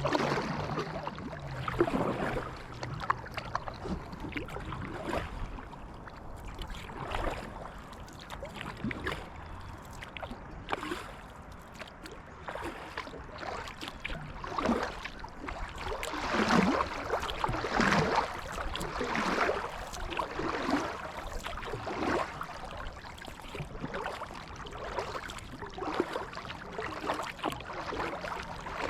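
Kayak paddle strokes in water: a splash and gurgle every second or two as the blades dip and pull, with water dripping off the paddle between strokes.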